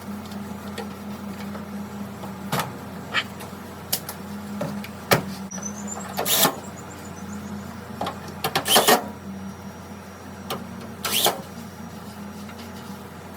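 Irregular clicks and clattering knocks of parts and tools being handled while a washing machine is worked on, over a steady low hum. The loudest knocks come about six and a half and nine seconds in.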